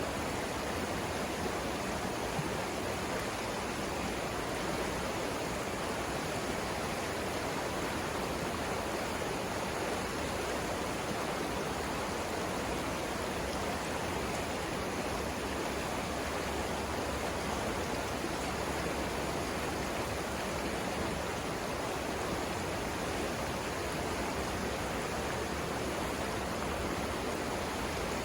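The Savannah River's flowing water: a steady, even rush with no breaks or changes.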